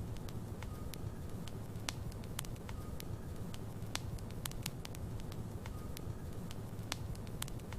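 Wood fire in a fireplace, logs burning with a steady low rumble and frequent sharp, irregular crackles and pops.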